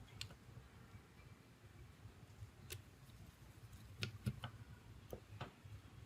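A handful of light, sharp clicks and taps from the small parts and tools of a smartphone being taken apart or handled, over a faint low hum. The clicks come singly at uneven gaps, most of them bunched in the second half, with the loudest about four seconds in.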